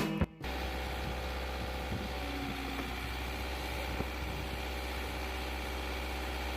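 Music cuts off about a third of a second in, followed by a steady low mechanical hum that does not change.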